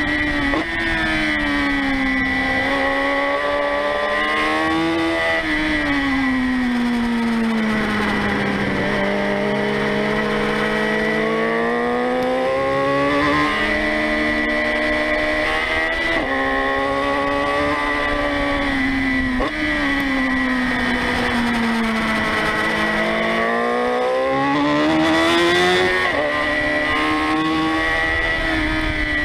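Motorcycle engine heard from on board, its pitch climbing under acceleration and sinking as it slows for corners, with quick breaks for gear changes every few seconds. A steady high whine runs over it, and it is loudest about three quarters of the way through.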